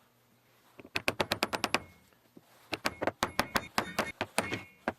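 Two quick runs of sharp, ratchet-like clicks, about ten a second: the first starts about a second in and lasts about a second, the second starts near the three-second mark and runs for about two seconds.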